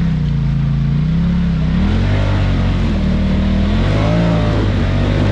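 Off-road vehicle's engine revving up and down repeatedly under load as it works over a rock-crawl obstacle.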